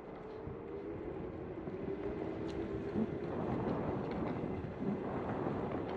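Bird electric scooter riding along: a steady motor whine over the rumble of its wheels, with wind on the microphone.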